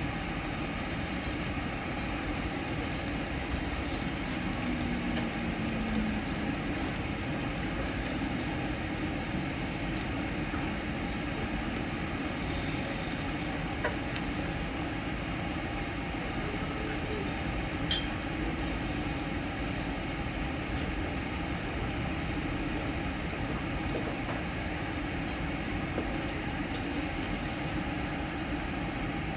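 Steady mechanical whooshing noise, even throughout, with a few faint clicks midway.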